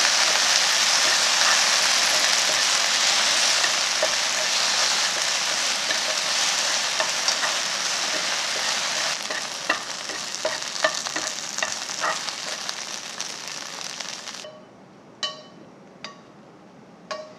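Okra and salted kelp sizzling in a frying pan as they are stir-fried, with wooden chopsticks clicking against the pan more and more often as the sizzle dies down. The sizzle cuts off suddenly about fourteen seconds in, and a few sharp taps follow as the food is pushed off the pan onto a ceramic plate.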